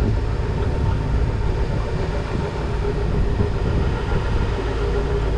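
Motorboat engine running steadily under way: a low, even rumble with a steady hum.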